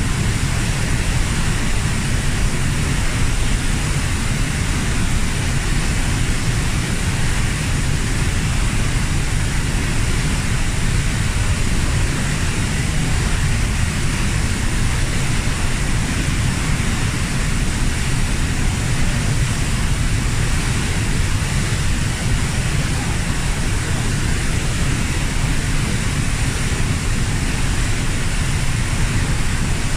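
Waterfall roaring steadily: a constant, unbroken rush of falling water with a deep rumble.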